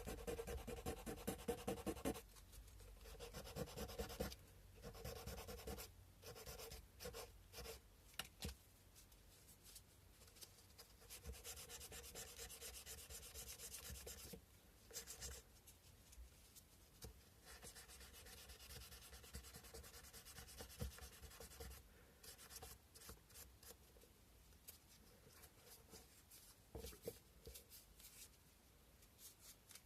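Sandpaper rubbed by hand on a cow-bone carving, a faint scratchy hiss. It comes in rapid back-and-forth strokes in the first couple of seconds, then in stop-start bursts with short pauses.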